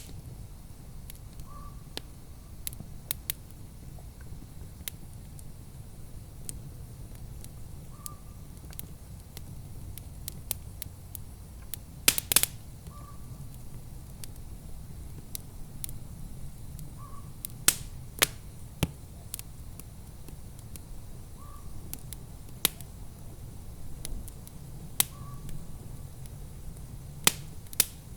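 Wood fire crackling in a fireplace: sharp pops and snaps at irregular intervals over a low, steady rumble, with a cluster of loud pops about twelve seconds in.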